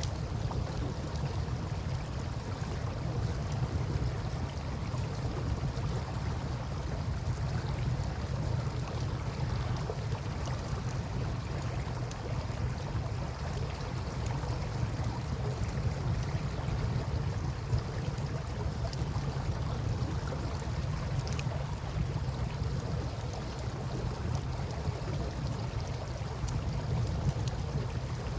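Campfire crackling with occasional faint pops, over the steady rush of river water and a low rumble.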